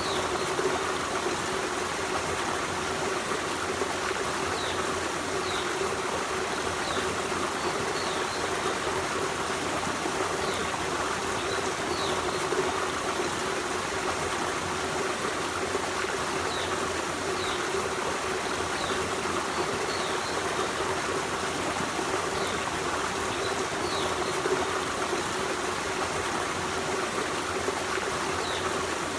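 Forest stream running steadily over rocks, a continuous rushing and trickling of water. Short, faint high chirps come and go through it.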